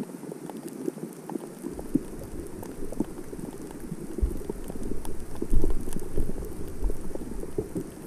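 Underwater sea sound: a dense, continuous crackle of small clicks and ticks. A low rumble joins about two seconds in and is loudest around the middle.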